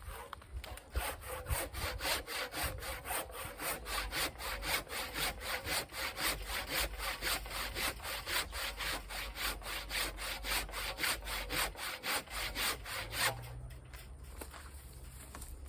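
Husky 20-inch fine-tooth hand saw cutting through a dry, seasoned log in quick, even back-and-forth strokes, about three a second. The sawing stops about 13 seconds in.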